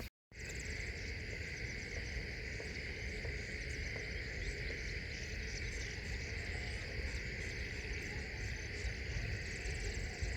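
Steady chorus of insects in a constant even drone, over a low steady rumble; the sound drops out completely for a moment right at the start, then resumes.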